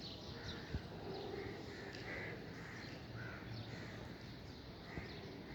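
Birds calling repeatedly, short calls one after another, over a steady background hiss.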